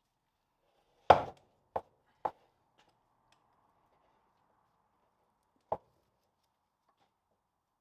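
Four sharp knocks from work on a Land Rover swivel housing: three close together about a second in, the first loudest, then a single one a few seconds later.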